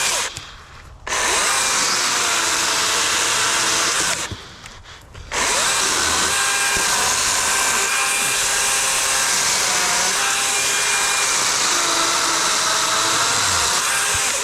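DeWalt 60-volt brushless cordless chainsaw with a 16-inch bar cutting through a log, its electric motor and chain running with a loud, hissing buzz. The saw falls silent twice when the trigger is let go, just after the start and about four seconds in, each time for under a second, then runs on steadily until it cuts off near the end.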